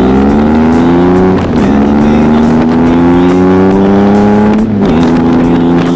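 Adventure motorcycle engine accelerating hard, its pitch climbing steadily and dropping twice, about a second and a half in and near the end, as it shifts up through the gears.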